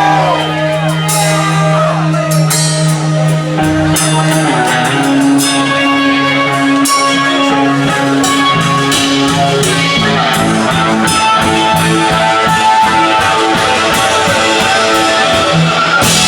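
Live rock band playing: guitar notes over sustained low notes, with drum-kit hits.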